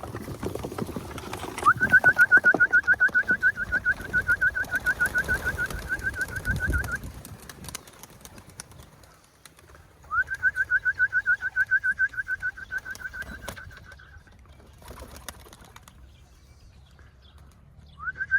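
A rapid trill held on one steady pitch, about ten notes a second, sounding in three runs of several seconds each, over the cooing of pigeons at the loft in the first part.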